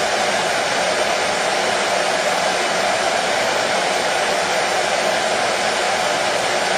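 Hair dryer running at a steady speed, a continuous even whoosh of blown air and motor with no change.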